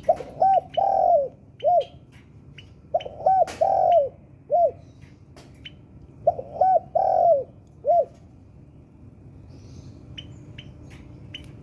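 Spotted dove cooing: three phrases of four notes each, two quick notes, a longer one, then a short one, repeated about every three seconds before stopping about eight seconds in. Short high chirps are scattered through it.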